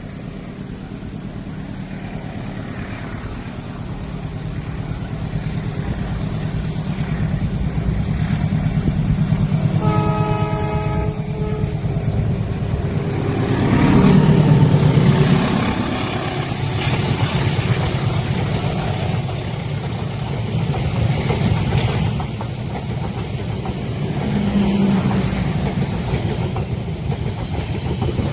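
A long train approaching and passing a level crossing: its rumble builds for several seconds, the locomotive sounds one horn blast about ten seconds in, and it is loudest around fourteen seconds as it goes by, followed by the steady rumble of the carriages rolling past.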